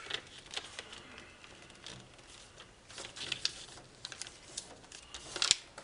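A sheet of origami foil being turned over and folded by hand: scattered light crackles and rustles of the foil, with a louder crackle near the end.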